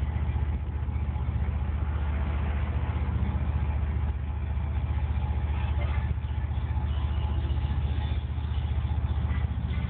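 Truck engine running steadily while cruising: a continuous low rumble with an even pulsing beat.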